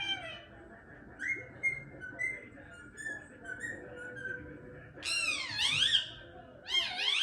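Indian ringneck parrot vocalising: soft short chirps and chatter, then two loud swooping whistle-like calls that rise and fall in pitch, about five seconds in and again near the end.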